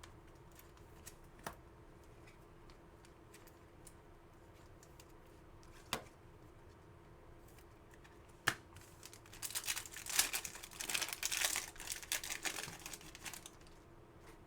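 A foil trading-card pack being torn open and its wrapper crinkled, in a few seconds of crackling from just past the middle, after a few single sharp clicks of cards being handled.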